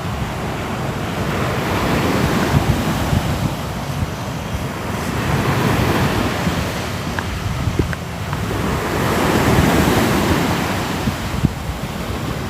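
Ocean surf: waves rolling in and washing back in slow swells, each rise coming about every three to four seconds.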